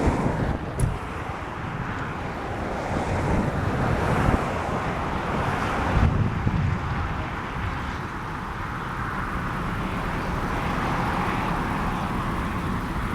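Strong, gusty wind from a supercell's rear-flank downdraft rushing over and buffeting the microphone, with heavier gusts about four and six seconds in.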